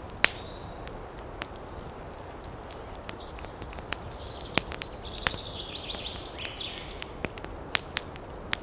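Wood fire crackling, with sharp, irregular pops over a steady hiss of forest ambience. A bird chirps in a twittering run through the middle.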